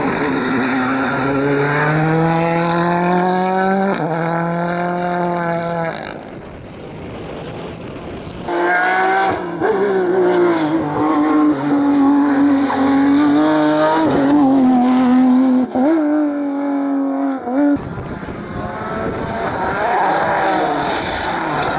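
Rally car engines at full throttle, revving up through the gears. The pitch climbs and breaks off at each change, with a quieter stretch of about two seconds in the middle before the next car comes through.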